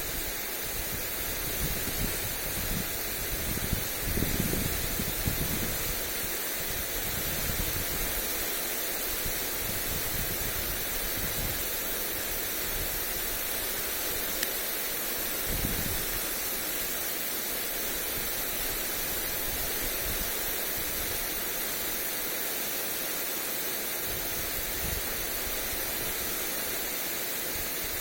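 Lawn sprinkler spraying water onto grass: a steady, even hiss of falling spray. Wind buffets the microphone with brief low rumbles, about four seconds in and again near the middle.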